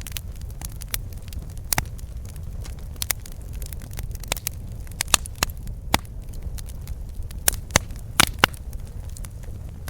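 Wood campfire burning, with irregular sharp pops and crackles over a low steady rumble of the flames; the loudest pops come in the second half.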